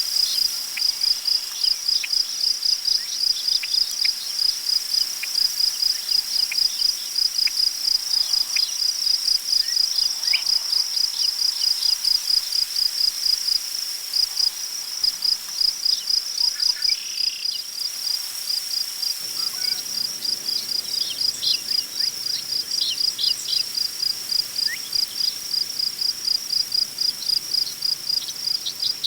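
Crickets chirping in a steady, even pulse, with a few faint bird calls. A soft rustle of wind in tall grass comes in during the second half.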